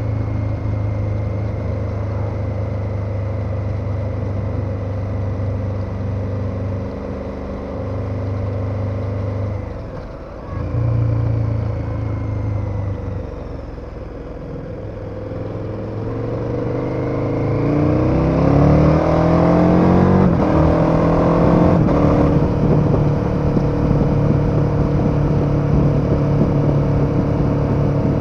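KTM 1290 Super Adventure's V-twin engine heard from the rider's seat: a steady cruise, a brief drop in engine sound about ten seconds in, then a stretch of easier running. From about two-thirds of the way in, the engine accelerates with a rising note and shifts up twice, then runs steadily and louder.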